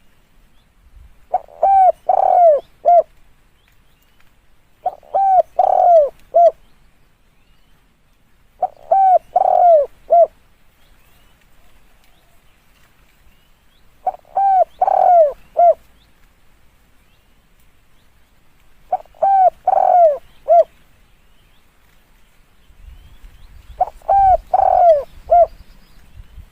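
Spotted dove cooing: a short phrase of three or four coos, repeated six times with pauses of about three seconds between phrases. A faint low rumble comes in near the end.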